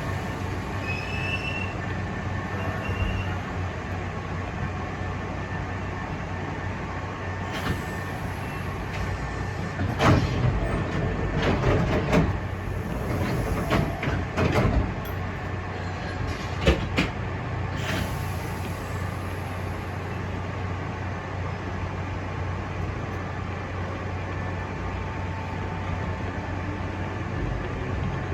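Hankyu Imazu Line electric train running, heard from inside the front car: a steady low hum with a run of sharp wheel clacks and knocks between about ten and seventeen seconds in.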